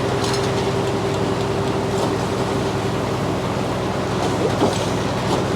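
Frick sawmill running steadily: an even machine hum with a constant mid-pitched tone and no change in load.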